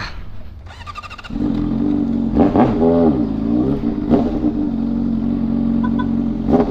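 Motorcycle engine started: a brief rapid cranking, then the engine catches about a second in and runs, revved up and back down twice.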